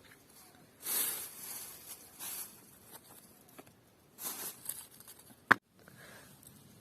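Three brief rustling bursts, then a single sharp click about five and a half seconds in.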